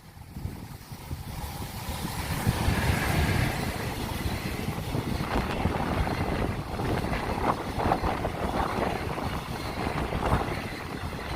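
Long freight train passing at speed: the rush of wheels on rail builds over the first couple of seconds, then holds as a steady rumble with rapid clicks of wagon wheels over rail joints.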